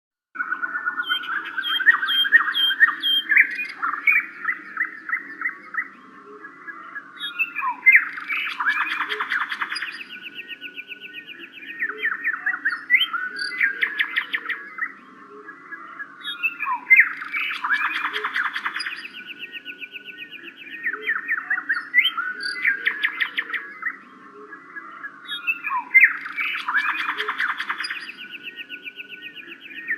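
Songbirds chirping and trilling in a dense chorus, a bird-sound track that repeats about every nine seconds, over a steady low hum.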